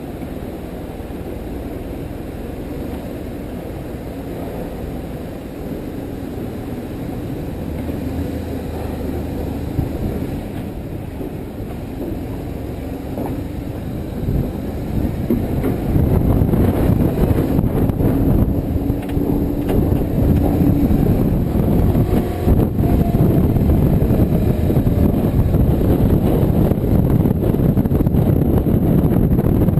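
Motorcycle on the move: engine and road and wind noise, growing louder about halfway through as it picks up speed.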